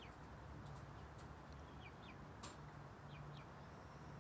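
Faint bird chirps: short falling notes, mostly in pairs, recurring every second or so over a low steady hum and hiss, with one short click in the middle.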